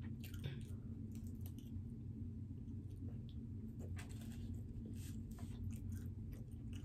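A person chewing pizza: soft, irregular mouth smacks and small clicks over a steady low hum.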